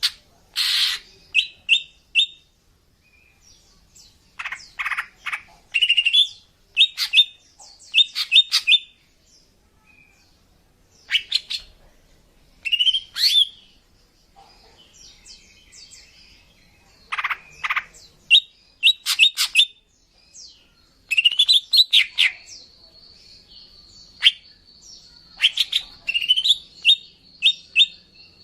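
Female cucak ijo (green leafbird) calling, used as a lure call for males: short bursts of rapid chirping notes with brief pauses between them. From about three quarters of the way through, a thin steady high tone sounds underneath.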